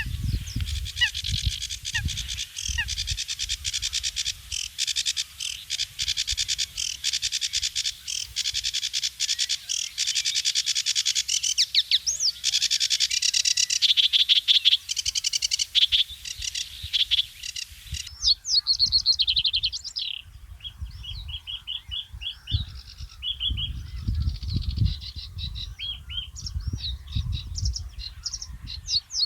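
Many small birds chirping at once in a dense, rapid chorus; about eighteen seconds in it changes abruptly to fewer birds giving separate whistles and trills. A low rumble comes and goes underneath.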